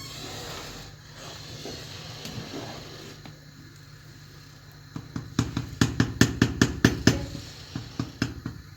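A quick run of about ten sharp knocks, roughly five a second, starting about five seconds in, then a few scattered knocks near the end.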